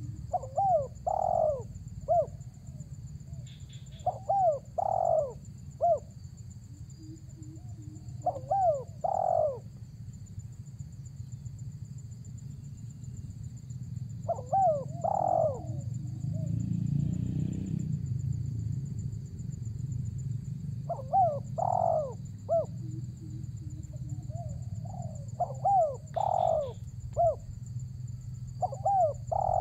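Spotted dove (tekukur) cooing: seven phrases of several coos each, a few seconds apart with a longer pause in the middle. A steady low rumble runs underneath.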